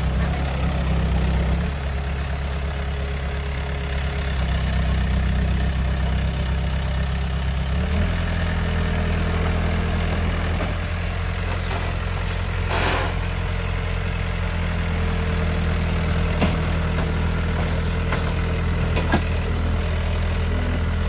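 Heavy diesel engine idling steadily, its low note shifting about a third of the way in. A short burst of noise stands out near the middle.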